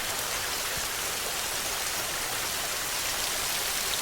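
Steady rainfall: an even hiss of rain with fine scattered drop patter.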